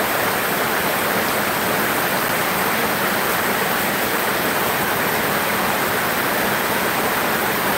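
Heavy downpour: a steady, unbroken hiss of hard rain falling on roofs and the ground.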